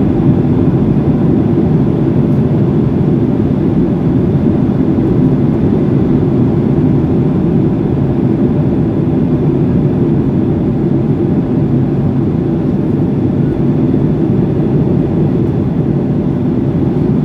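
Steady drone of an airliner in flight, heard inside the cabin: an even, loud rumble of engines and airflow with a faint steady high whine above it.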